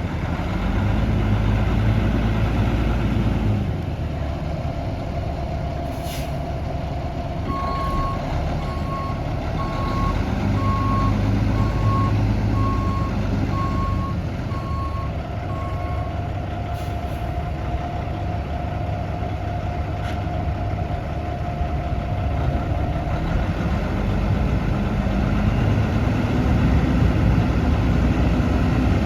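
1999 Freightliner FL112 dump truck's diesel engine running, its rumble rising and falling as it is revved, while a reversing beeper sounds about once a second for roughly eight seconds in the middle. A few short air hisses from the air brakes break in.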